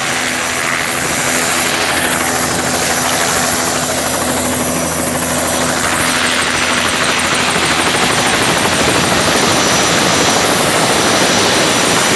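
Helicopter running: a loud, steady rotor and turbine noise with a thin high whine. It grows slightly louder over the last few seconds.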